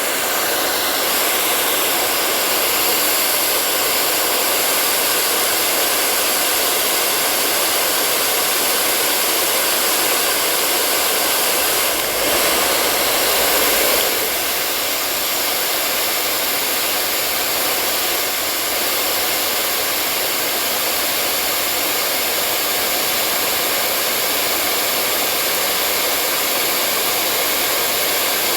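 Hair dryer blowing steadily: an even rushing of air with a faint motor whine. It swells briefly about twelve seconds in, for a couple of seconds.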